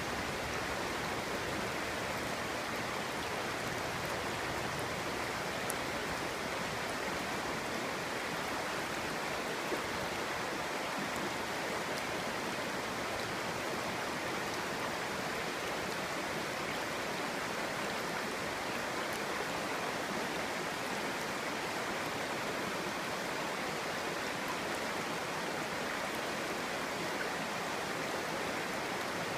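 A clear stream flowing over stones, a steady, even babbling and rushing of water.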